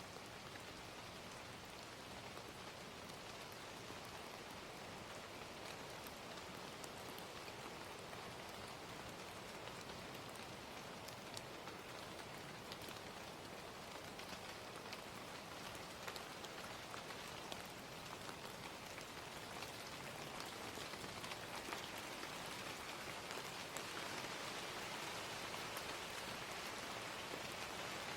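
Gentle steady rain ambience mixed with the scattered faint pops of a crackling fire, growing slightly louder near the end.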